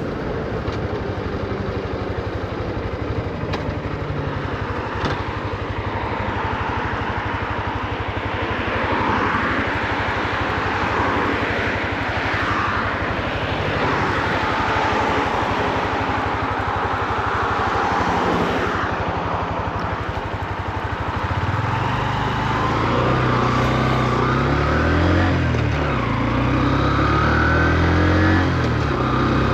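Honda CB125F's 125 cc air-cooled single-cylinder engine running steadily amid traffic noise, then, about two-thirds through, climbing and dropping in revs in steps as it accelerates through the gears. The revs stay moderate because the new engine is being run in.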